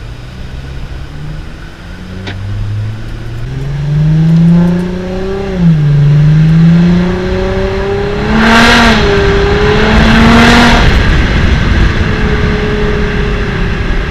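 Straight-piped Audi 2.7 TDI V6 diesel with no muffler, accelerating hard through the gears. The engine note climbs, drops briefly at a shift about six seconds in and again about nine seconds in, and climbs again. A loud rushing noise rides over the hardest pulls, then the engine settles to a steadier, lower note near the end.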